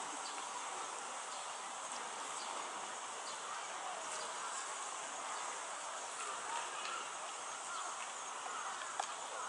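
Steady chorus of insects, a continuous high-pitched drone without pauses, with a few faint short chirps on top.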